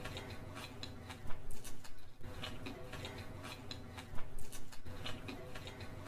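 Close-up chewing of a mouthful of fried rice and noodles: wet mouth clicks and lip smacks that come in clusters, about a second in and again just after four seconds, over a low steady hum.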